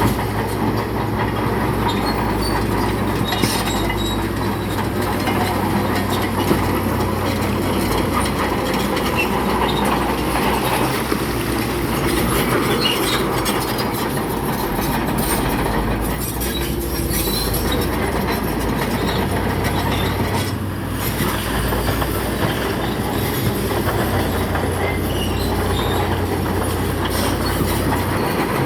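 Bulldozer's diesel engine running steadily under load, with its steel tracks clanking and squealing as it pushes rock.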